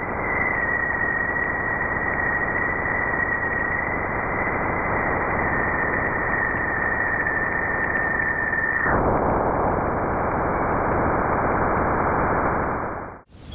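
Radio receiver static: a steady hiss with a thin, steady high tone over it that wavers slightly and cuts out about nine seconds in, while the hiss goes on and then stops abruptly near the end.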